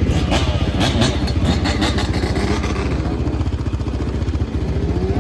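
Motorcycle engines running close by, with several sharp cracks in the first two seconds or so.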